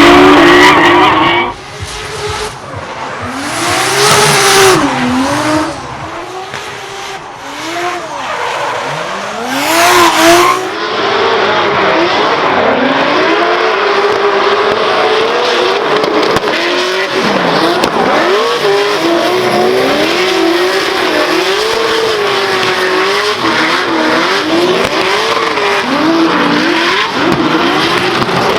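Toyota Supra MK4's turbocharged 2JZ straight-six revving up and down as the car drifts, over the hiss and squeal of sliding tyres. The sound drops sharply about a second and a half in, then settles to a steadier level near the middle.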